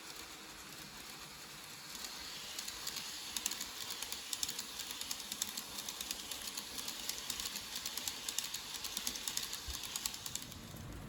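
N gauge model train running past on the layout track: a high motor whir with rapid clicking of the wheels over the rails, swelling about two seconds in and fading near the end.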